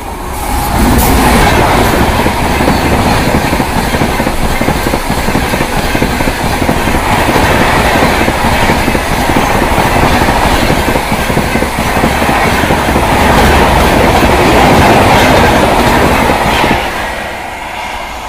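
Superfast express train, an electric locomotive hauling red LHB coaches, passing at about 130 km/h with a loud steady rush of wheels and rapid clickety-clack over the rail joints. It swells about a second in as the locomotive goes by, holds as the coaches stream past, and fades as the train recedes near the end.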